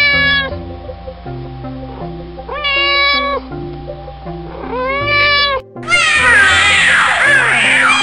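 A domestic cat meows three times, each call a short bending cry, over background music with a stepping bass line. About six seconds in, a denser, louder run of several overlapping meows takes over.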